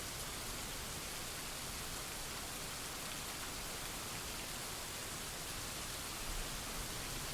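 Steady, continuous rain falling: an even hiss of many drops with no thunder or other events.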